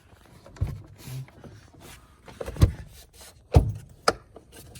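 Knocks and clunks of plastic air filter housing and engine cover parts being handled and fitted back onto a car engine: four sharp knocks, the two in the middle loudest.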